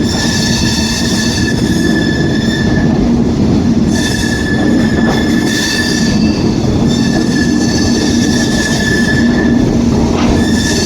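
Train running through a station, its wheels squealing on the rails in a steady high-pitched whine over a loud, continuous rumble, the squeal briefly breaking about four seconds in and again near the end.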